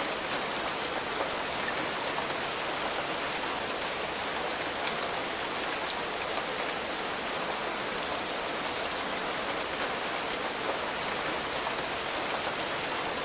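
Steady rain sound, an even hiss that does not change.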